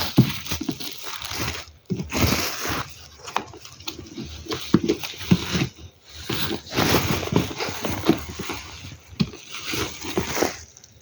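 Packaging being handled and opened: irregular rustling, crinkling and scraping as the parcel's wrapping and tape are cut and pulled off the box.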